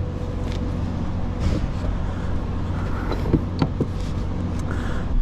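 Semi truck's diesel engine running steadily, with a few short clicks about three and a half seconds in.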